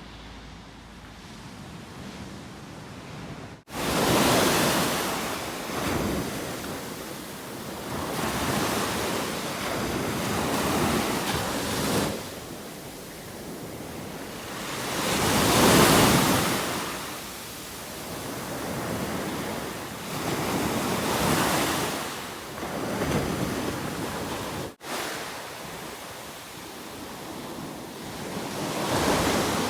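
Ocean waves breaking on a beach: a rushing noise that swells and falls back every few seconds, loudest at about the middle. It comes in after a quieter first few seconds, with some wind buffeting the microphone.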